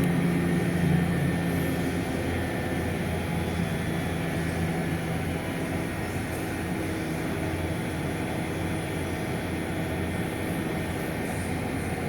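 A steady low mechanical drone with a few held low tones, easing slightly in the first couple of seconds, with no distinct bangs.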